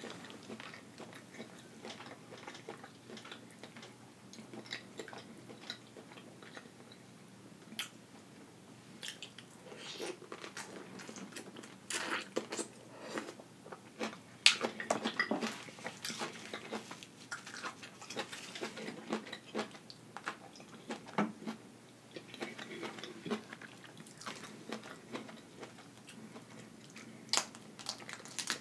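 A person chewing and biting food, including steamed broccoli, with wet mouth sounds and scattered sharp clicks. The chewing is busiest around the middle, with one sharp click near the end.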